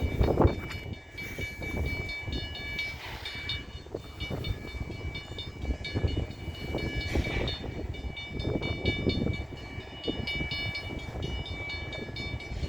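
CN freight train at a railroad crossing: a low, steady rumble from the train, with a steady high-pitched ringing tone over it.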